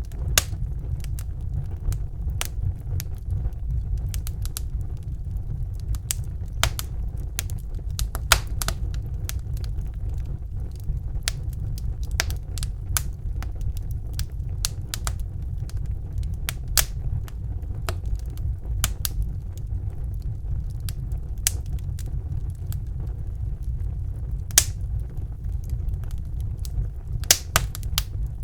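Wood fire crackling and popping in a fireplace: irregular sharp pops and snaps over a steady low roar of the flames.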